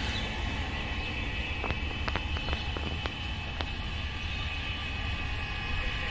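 A steady low rumble under a faint, even high hum, with a handful of light clicks about two to three and a half seconds in.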